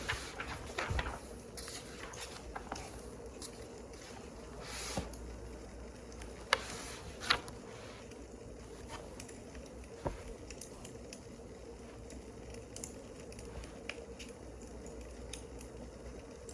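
Wood fire crackling: irregular pops and snaps over a steady low hiss, with two sharper pops about six and seven seconds in.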